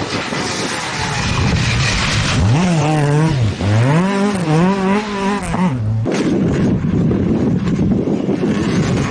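Rally car engine revving hard, its pitch climbing and dropping twice as the car accelerates and lifts off. About six seconds in there is an abrupt cut to a loud, noisy rush with only a faint engine note.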